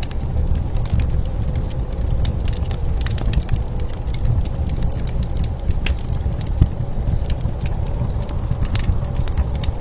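Wood fire crackling with irregular sharp pops, over a steady low rumble of blizzard wind.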